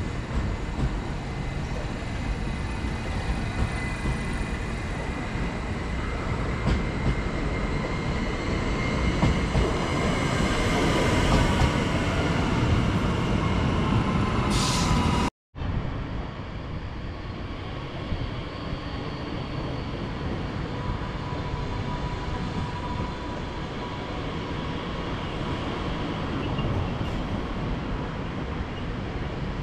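Train in a station: a steady rumble with thin whining tones that glide down in pitch, growing louder toward the middle. Halfway through, the sound cuts off abruptly, then carries on as a quieter, steadier train rumble.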